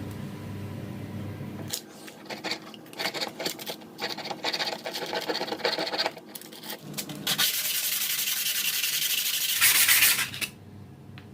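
Abrasive rubbing and scraping, as in sanding or filing during the repair of a canning seamer key. First comes a run of short, irregular strokes, then about three seconds of steadier, louder rubbing that stops shortly before the end.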